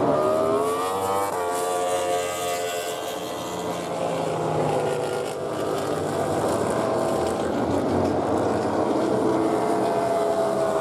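MotoGP race motorcycles' 1000 cc four-stroke engines running at racing speed. One rises sharply in pitch in the first second or so as it accelerates, with other bikes' engines running steadily alongside.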